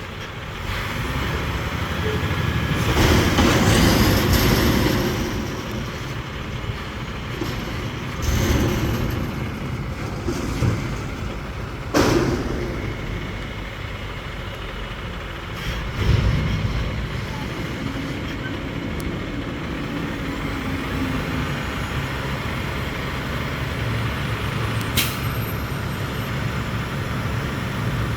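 Garbage truck at work on its route: the diesel engine running steadily, a loud hiss swelling a few seconds in, and sharp metallic bangs about twelve and sixteen seconds in.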